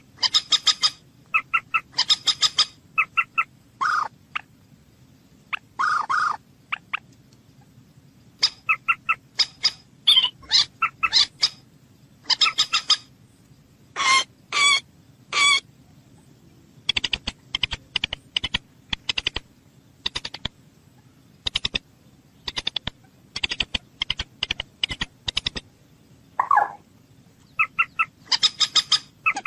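A bird calling again and again: short, harsh, high calls, some single and some in quick runs, with pauses between them.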